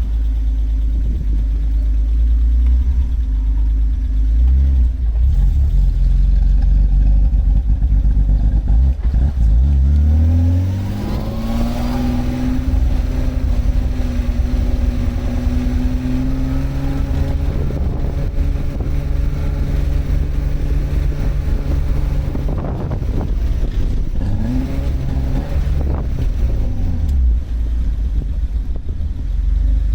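BMW E36 car engine running, a deep rumble at first. About ten seconds in, its note climbs as the engine revs up, then holds steady for about ten seconds. Near the end it drops, rises briefly once more and falls back.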